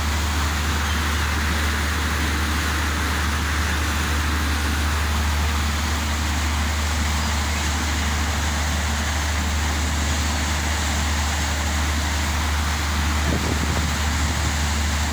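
Steady low drone of a ship's engine under a constant rushing noise, with no breaks or changes.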